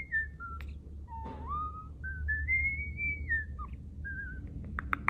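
A bird whistling clear, pure notes, held and stepping up and down between pitches like a tune, ending in a few sharp clicks.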